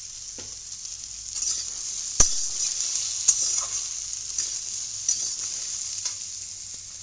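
Cubed ridge gourd and potatoes sizzling as they fry in oil in a kadai, while a metal spatula stirs and scrapes them. The stirring gets louder after about a second, with a sharp clack of the spatula on the pan a little after two seconds in and a lighter one a second later.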